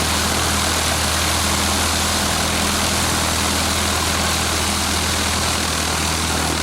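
Single-engine light aircraft's piston engine idling steadily on the ground with the propeller turning, heard from inside the cabin.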